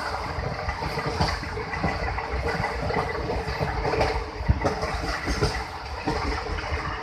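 A moving train heard from inside the carriage: a steady rumble of wheels on the track, with frequent irregular knocks and clacks.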